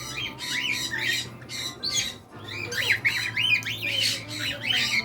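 Many parrots squawking and calling over one another, several short calls a second, with a low steady hum underneath.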